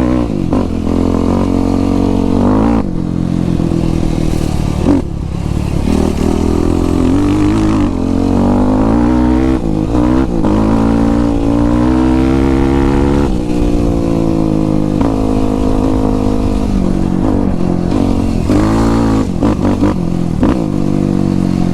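Yamaha YFZ450 sport quad's single-cylinder four-stroke engine being ridden, its pitch rising and falling again and again as the throttle is opened and closed.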